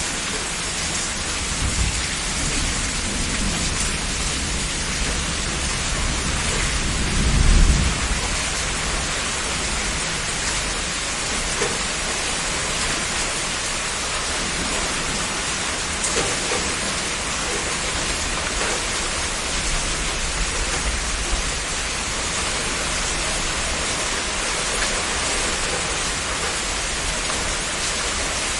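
Heavy rain falling steadily, with a low rumble of thunder that swells in the first quarter and peaks about seven seconds in.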